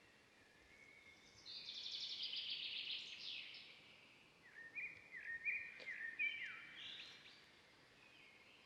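A songbird singing faintly: first a buzzy, fluttering trill that ends in a downward sweep, then a run of short stepped notes.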